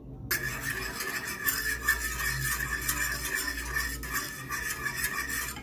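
Utensil stirring cream sauce in a pan, scraping steadily against the pan; it starts abruptly a moment in.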